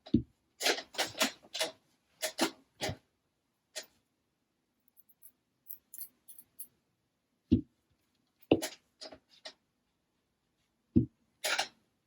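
Small RC car differential parts and tools handled on a workbench: clusters of quick clicks and taps, a few dull knocks as parts are set down, and a short rustle near the end.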